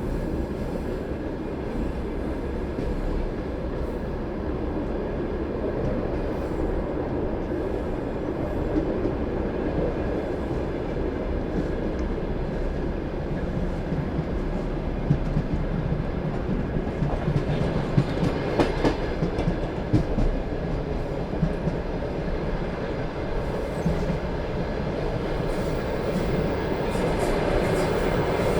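Passenger train carriage running along the track, heard from the carriage window: a steady rumble of wheels on rail. A run of sharp clicks from wheels passing over rail joints comes a little past halfway.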